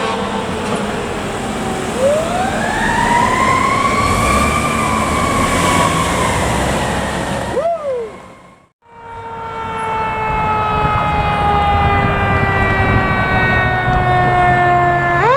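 Fire truck siren wailing over a low engine rumble: a slow rise and fall, then a quick up-and-down. After a brief break comes a long wail that slowly falls in pitch.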